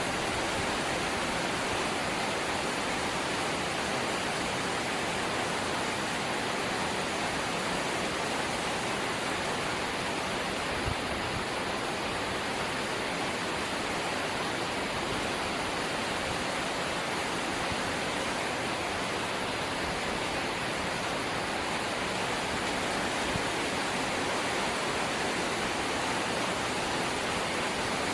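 Steady light rain falling, an even hiss with no separate drops or changes standing out.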